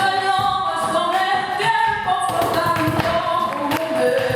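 Flamenco-style a cappella singing without the band's amplification: one voice holding and bending long melismatic notes, with a few percussive taps.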